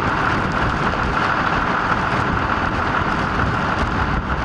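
Loud, steady rushing noise of wind and road traffic.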